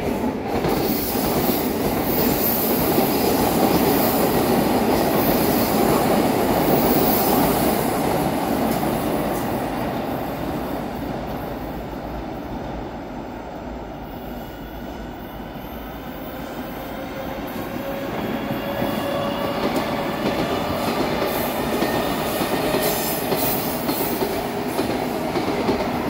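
A train running on rails: a continuous rumble that is loudest early on, eases off around the middle and builds again. Over the last third, thin high whining tones glide up and down in pitch above the rumble.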